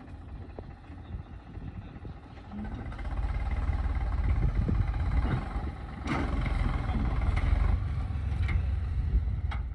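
Tractor engine running, growing louder about three seconds in and holding there.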